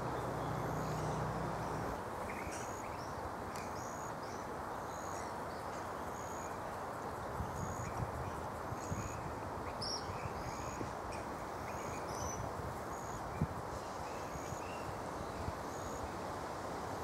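Steady outdoor background noise with a bird repeating a short high chirp about once a second and a few other faint bird calls. A low wind rumble on the microphone in the first two seconds.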